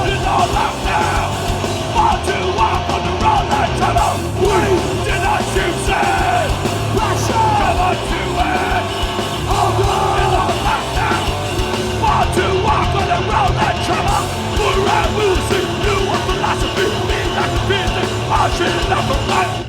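Hardcore punk band playing live at full volume, with distorted guitars, heavy drums and shouted vocals. The song stops abruptly at the very end.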